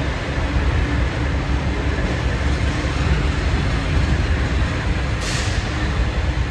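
Tram vehicle running with a steady low rumble, and a short hiss of released air about five seconds in.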